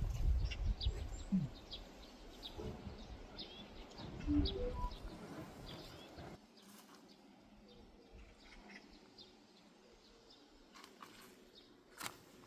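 Small birds chirping in short, high, repeated chirps. A low rumble under them in the first half cuts off suddenly about six seconds in, and a single sharp click comes near the end.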